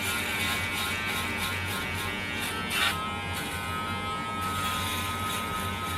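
Electric razor buzzing steadily as it shaves a man's face, with a brief louder rasp about three seconds in.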